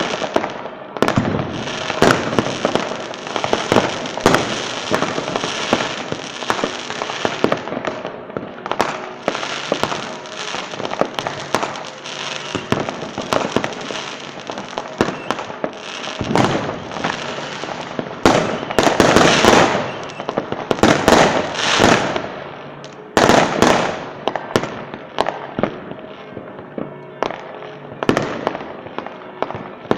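Fireworks display: a dense run of bangs and crackling shells going off one after another, with a cluster of louder, longer crackling bursts a little past halfway.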